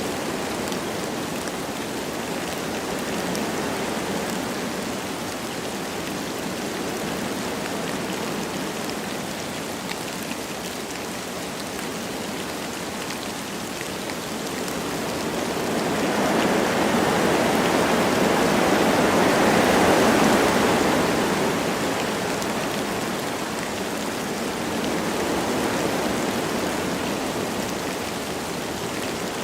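Wind blowing through forest trees with light rain falling, a steady rushing. About halfway through, a gust swells louder and dies away again a few seconds later.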